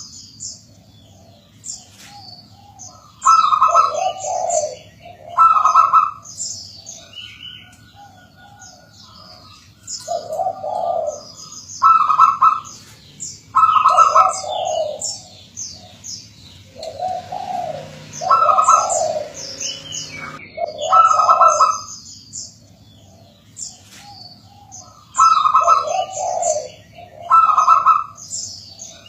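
Zebra dove (perkutut) cooing: loud phrases of soft, rolling coos that step between a lower and a higher note, repeated every few seconds. Thinner, high-pitched chirps of small birds run over them.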